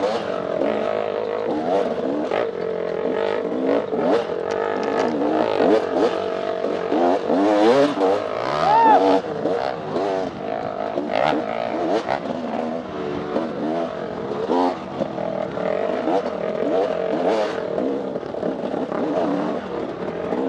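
Dirt bike engine revving up and down continuously as the throttle is worked hard off-road, with the pitch rising and falling every second or so.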